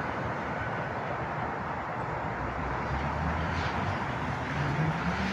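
Class 323 electric multiple unit pulling into the platform: a steady rumble of wheels and running gear, with a faint motor tone that rises in pitch in the second half.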